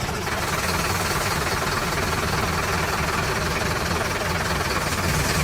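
Vehicle engine idling steadily just after being started.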